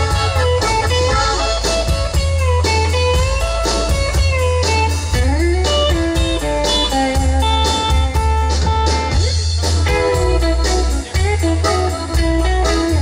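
Electric guitar solo with bent, sliding notes, played over a live band's bass and drums in a bluesy shuffle.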